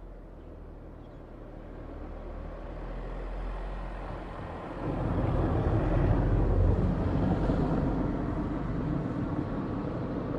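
Airbus A320's CFM56 jet engines on a landing roll on a wet runway, a rushing noise with spray that builds gradually, turns sharply louder about five seconds in, then slowly fades.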